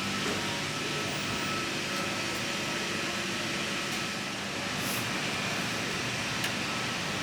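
Steady hum of an electric suburban train standing at the platform, its air-conditioning and equipment running, with a few faint clicks and a short hiss about five seconds in.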